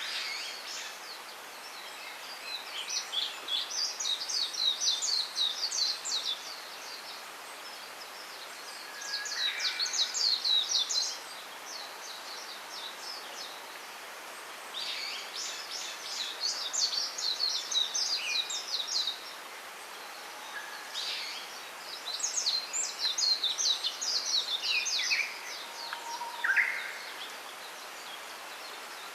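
A small songbird singing in rapid, high twittering phrases. Four phrases of two to five seconds each come with pauses of a few seconds between them, and a few short, lower single notes fall in the gaps. A steady faint hiss runs underneath.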